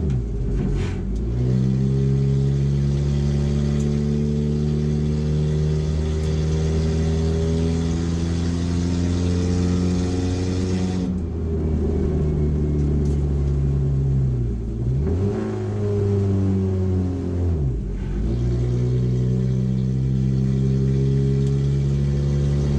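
Race car engine heard from inside a stripped, roll-caged cabin, pulling at steady high revs while driving on track. About halfway it eases off and the pitch falls, then dips sharply and climbs back twice a few seconds apart before pulling steadily again.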